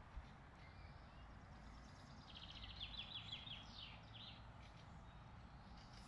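A songbird sings one short phrase about two seconds in: a rapid run of high notes lasting about a second and a half, over a faint steady woodland background.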